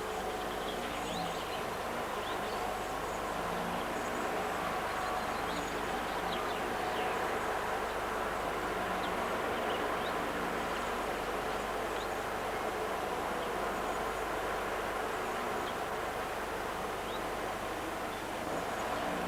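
Birds calling: short low calls and scattered faint high chirps over a steady background noise.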